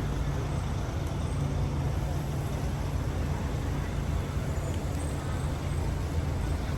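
Steady low rumble of background road traffic, with faint voices in the mix.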